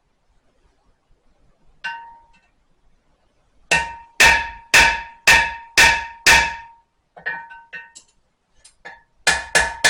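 Blacksmith's hand hammer striking a spring-steel knife blade on an anvil, each blow ringing with a clear metallic tone. One blow comes first, then six heavy blows about two a second, lighter taps, and a quicker run of blows near the end, knocking down a thick spot in the blade.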